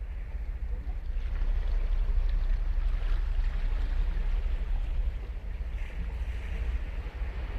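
Ocean surf on a sandy beach: waves breaking and washing up the shore. The sound swells about a second in and again near the end, over a steady low rumble.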